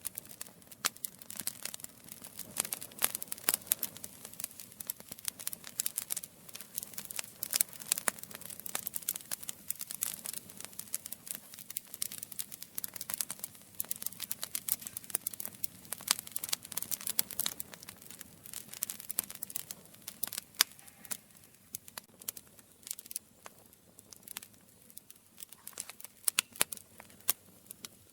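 Campfire burning, with dense, irregular crackles and sharp pops from the burning wood over a soft low rush of flame.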